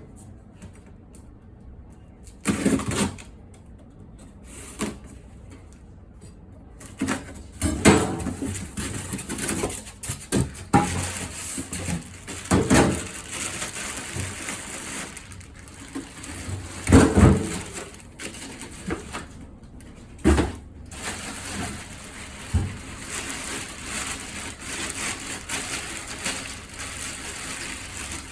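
A boxed coffee grinder being unpacked by hand: cardboard and packing material rustling and scraping, with irregular knocks and thumps as the box and its contents are handled.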